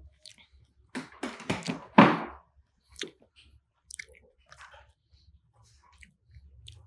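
Close-miked chewing of pineapple: a run of crunching bites starting about a second in and loudest around two seconds, followed by a few softer mouth clicks.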